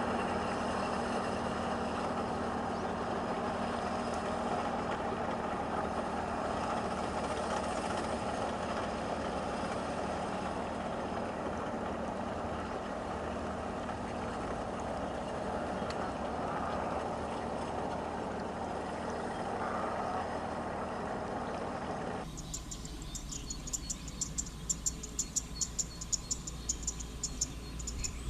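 Steady engine noise, like a vehicle idling, for most of the stretch. It cuts off suddenly near the end, leaving insects chirping in rapid high-pitched pulses over a low rumble.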